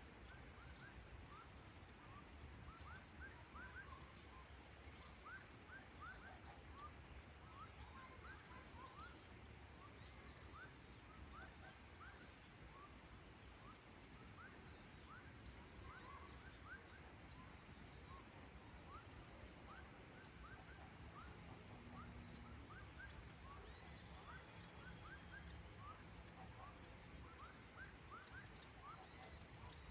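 Faint countryside evening ambience: many short rising chirps from distant animals, a few each second, over a faint steady low background noise.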